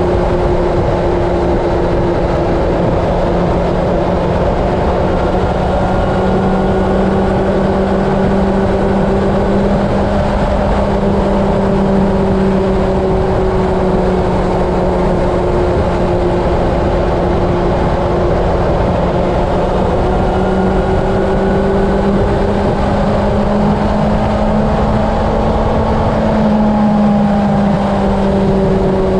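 Honda CB750 inline-four engine running at a steady highway cruise, its pitch drifting only slightly with small throttle changes and rising a little about 24 seconds in, under heavy wind rumble on the microphone.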